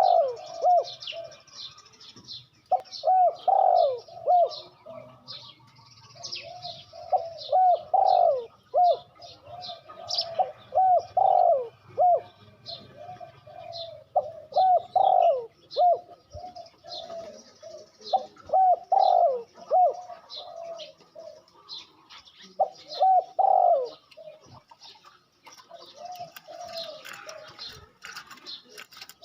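A dove cooing over and over in phrases of quick, rolling notes, a new phrase every few seconds, with a pause in the middle and again near the end. Small birds chirp high and sharp over it.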